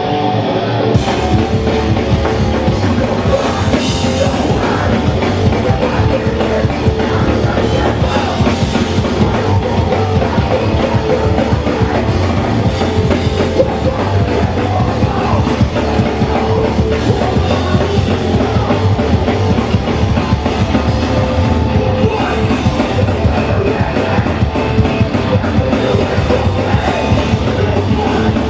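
Hardcore punk band playing live: loud distorted guitars, bass and drums in a dense, continuous wall of sound. The low end comes in about a second in.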